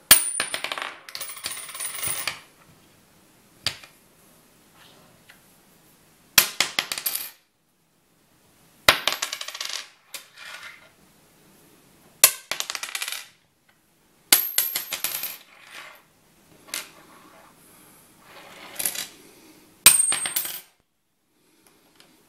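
About ten US coins dropped one at a time onto a wooden table, each landing with a clatter that bounces and rattles briefly before settling, some ringing with a thin high tone. The last drop, near the end, is a Susan B. Anthony dollar coin.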